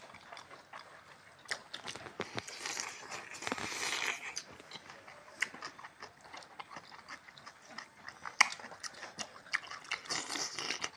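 Close-up eating sounds: several people chewing and lip-smacking with scattered wet mouth clicks, as they eat rice with their hands.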